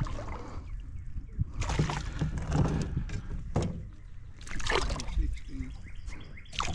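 A hooked hybrid striped bass splashing and thrashing at the surface as it is fought toward the boat: a long burst of splashing from about a second and a half in, then another short one past the middle.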